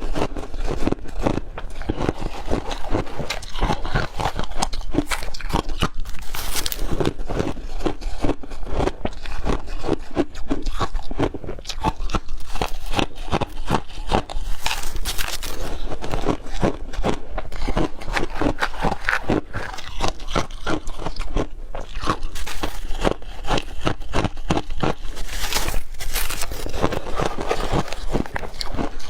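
Close-up crunching and chewing of hard crushed ice in the mouth, a dense, continuous run of loud crackly crunches with a few louder bites.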